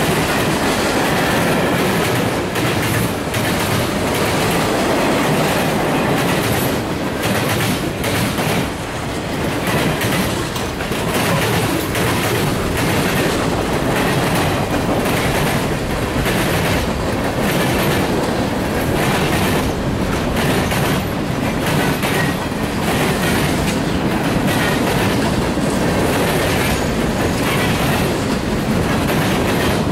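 Cars of a mixed freight train rolling past at speed, the steel wheels clattering over the rail joints in a steady, loud clickety-clack.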